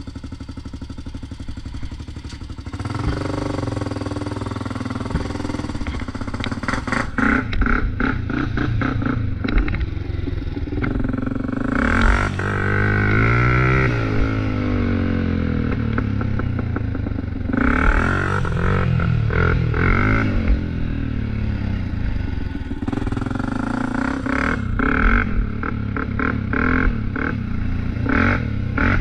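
Motorcycle engine running hard and revving up and down over and over, quieter for the first three seconds and then loud throughout.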